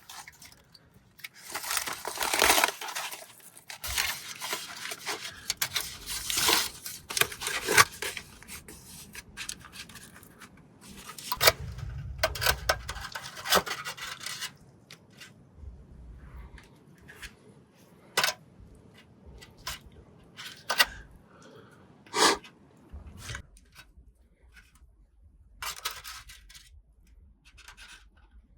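Rustling and tearing of crinkly material being handled for about thirteen seconds, then scattered sharp clicks and knocks.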